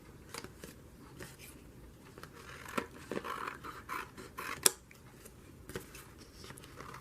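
Scissors snipping paper in scattered short cuts, with light paper rustling between them; the sharpest snip comes a little past the middle.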